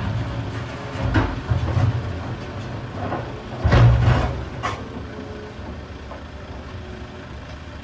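Heavy diesel engine of a Volvo EC380EL excavator running under load, with a few heavy knocks of rock loading, the loudest about four seconds in, then a steadier lower rumble.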